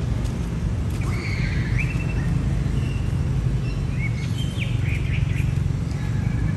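Outdoor ambience: a steady low rumble with scattered short, high bird chirps and tweets over the middle few seconds.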